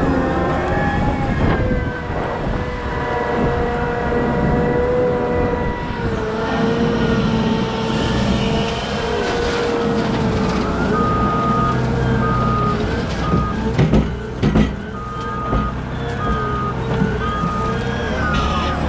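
Cat 972M XE wheel loader's diesel engine working under load, with whining lines that glide up and down as it manoeuvres and a few sharp clanks near the middle. A reversing alarm starts beeping steadily about eleven seconds in.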